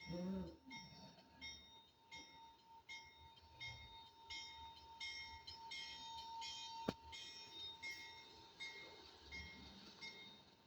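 Faint diesel-hauled bauxite freight train running by: a low rumble with a steady high whine. A high ding repeats about every 0.7 s throughout, and there is one sharp click about seven seconds in.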